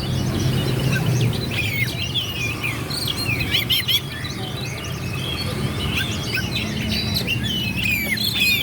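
Oriental magpie-robin (kacer) singing a fast, continuous run of short, varied whistled notes with quick pitch sweeps, over a low steady hum.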